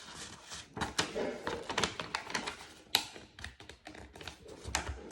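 A sheet of A4 paper being folded and creased by hand: irregular crackles, rustles and sharp taps, the loudest about three seconds in.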